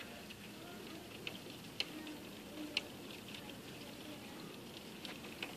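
Steady rain with close, irregular drops ticking sharply, two of them louder about two and three seconds in.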